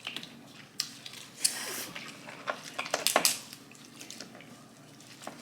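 Snow crab leg shells being cracked and picked apart during eating: a scattering of sharp clicks and cracks with wet eating sounds, the loudest crack about three seconds in.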